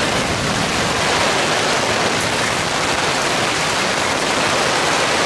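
Heavy downpour of rain: a steady, dense hiss of rain falling hard.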